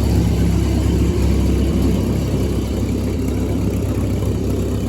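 1937 Massey-Harris 25 tractor engine running steadily, freshly brought back to life after a carburettor mixture adjustment.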